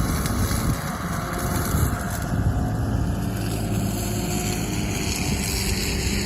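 Mini excavator's diesel engine running steadily while its hydraulic flail mower attachment (Cutterman KM30) works, with a continuous mechanical drone.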